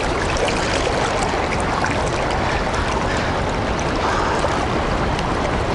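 Steady rushing of river current below a lock and dam, with a few faint ticks over it.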